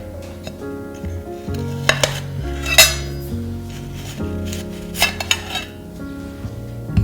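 Kitchen utensils clinking and knocking against dishes, a few separate strikes with the sharpest a little under three seconds in and a small cluster around five seconds in, over soft background music.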